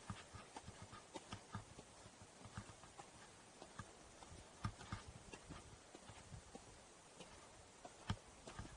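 Faint, irregular footsteps of a hiker on a forest trail, with small knocks and clicks, over a soft steady hiss.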